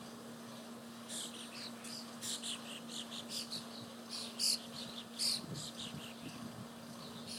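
Birds chirping: a rapid run of short, falling high chirps starting about a second in, two of them loudest around the middle, over a steady low hum.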